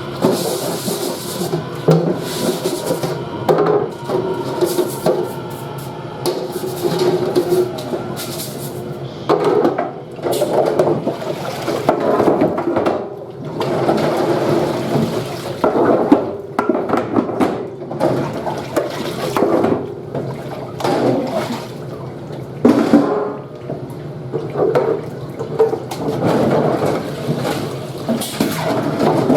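Running water with trays knocking and clattering as a stack of wing trays is washed in a restaurant dish area.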